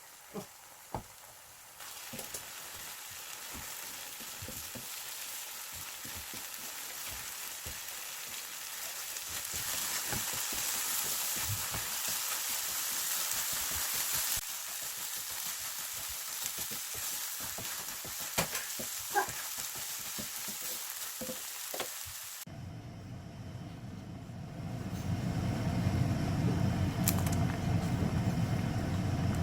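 Food sizzling as it fries in a pan, a steady hiss with scattered clicks of a utensil. About 22 seconds in, it cuts to a steady low hum that grows louder near the end.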